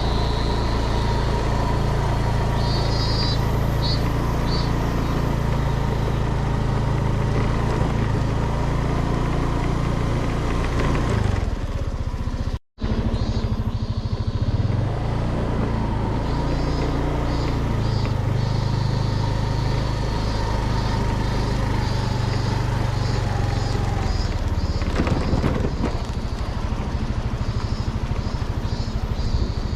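An engine running steadily, its pitch shifting now and then. The sound breaks off for an instant about twelve and a half seconds in.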